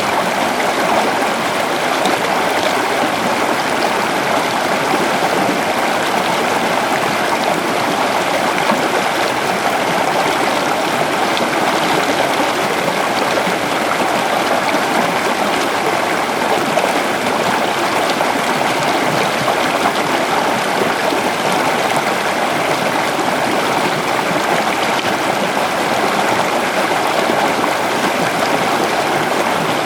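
A small river flowing over stones, a steady rushing and gurgling of water.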